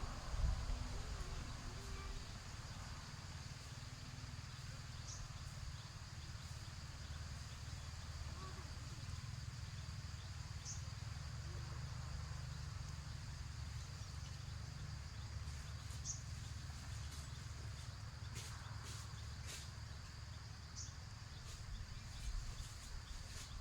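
Outdoor insects droning steadily on one high note, with a short high chirp about every five seconds over a constant low rumble, and a few sharp clicks near the end.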